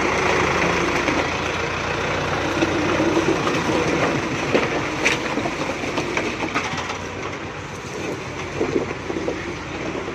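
Heavy diesel engine running steadily under load, with scattered metallic clanks and knocks, one sharper clank about five seconds in.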